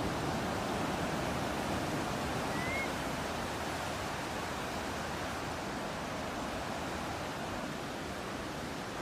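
Ocean surf and breeze as a steady rushing noise, with one short, faint rising bird chirp about two and a half seconds in.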